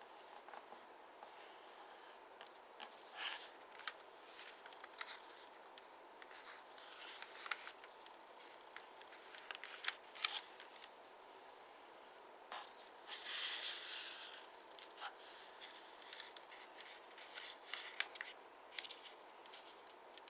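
Sheet of origami paper being folded and creased by hand: faint crinkles and sharp creasing clicks at irregular intervals, with a longer rustle about two-thirds of the way through.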